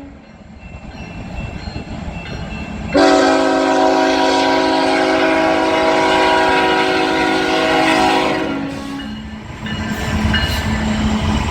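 Freight train's diesel locomotive air horn sounding one long blast of about five and a half seconds, a chord of several notes. The low rumble of the train builds under it before and after.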